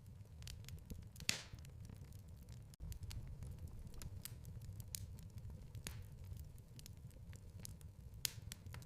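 Wood fire crackling in a fireplace: a steady low rumble of burning with irregular sharp pops, the loudest about a second in. The sound cuts out for an instant a little under three seconds in.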